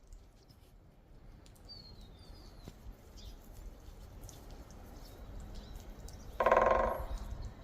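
Woodpecker drumming: one short, loud roll on wood near the end that starts sharply and fades over about half a second. Faint small-bird chirps sound earlier.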